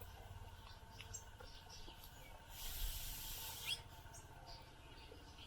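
Small wild birds chirping, with scattered short high calls, and a hissing rush about a second long in the middle.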